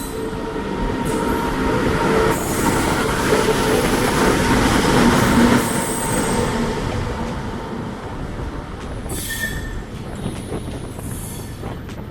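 Kovai Express passenger train pulling into the platform: a rumble of coaches and wheels with wheels squealing in steady tones. It grows loudest about halfway through, then eases off as the train slows.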